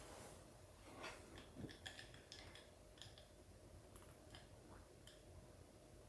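Near silence with faint, scattered light clicks and ticks, like small objects handled in a quiet room.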